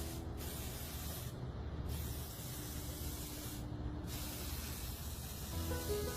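A steady hissing noise that breaks off briefly three times, over a low hum.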